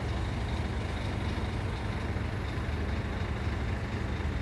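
Scania truck's diesel engine running steadily, with a constant low rumble.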